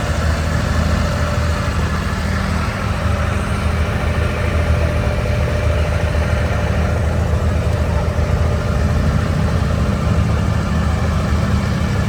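Engine of a Dubai Creek abra, a wooden water taxi, running steadily with a low, even drone.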